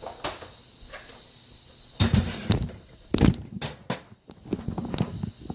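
Cookware being handled: a series of knocks and clatters, with a short rushing scrape about two seconds in and the loudest knock a little after three seconds.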